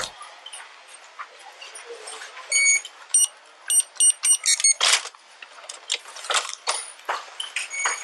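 Short electronic beeps in two quick clusters, a few seconds apart, followed by rustling and knocks against the microphone.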